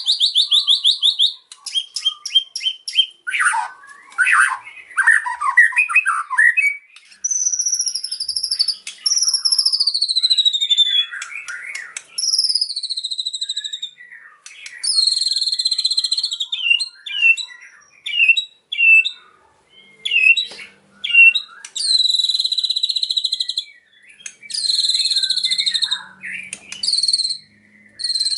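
White-rumped shama (murai batu) singing a long, varied song. It opens with a fast trill, then runs through harsh chattering, long falling whistles and repeated buzzy churring phrases.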